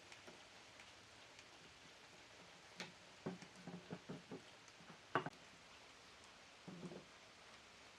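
Scattered light taps and knocks, like objects being handled and set down, over a quiet background. There is a cluster between about three and four and a half seconds in, one sharper knock just after five seconds, and a couple more near seven seconds.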